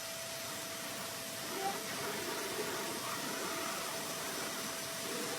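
Steady hiss with a faint steady tone under it. A quiet voice comes in about a second and a half in, and everything cuts off abruptly at the end.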